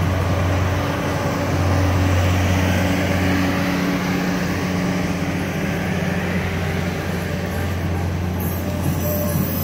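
Canadian Pacific Holiday Train's decorated boxcars rolling past on the rails, a steady low rumble of wheels on track.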